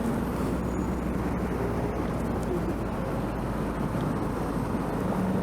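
Steady road traffic noise close by: a low rumble of car engines and tyres on the road.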